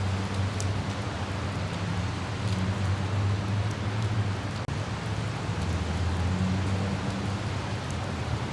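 Steady light rain hiss over the low, even rumble of a car driving, with a few faint droplet ticks. The sound drops out for an instant about halfway through.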